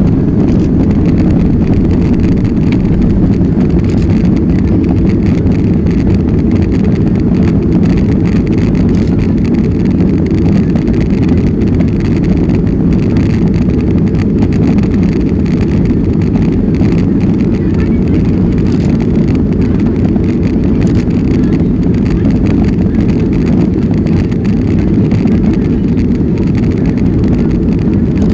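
Steady cabin noise inside a jet airliner in flight: the engines and rushing air make a deep, even rumble that does not change.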